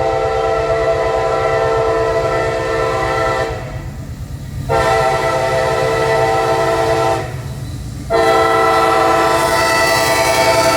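Locomotive air horn blowing a chord in long blasts, with breaks about three and a half and seven seconds in. Under the horn is the steady low rumble of the approaching train.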